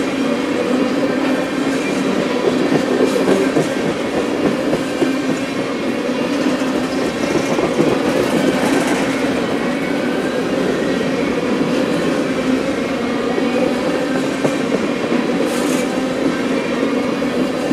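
Steady rumble of a freight train of empty tank cars rolling past close by, steel wheels running over the rail joints, with a couple of brief high-pitched flickers from the wheels and rails.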